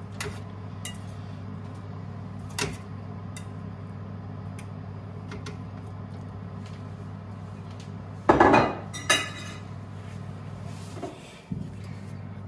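Kitchen clatter of pots, pans and utensils being handled: scattered light clicks and knocks, and one loud clatter about eight seconds in, over a steady low hum.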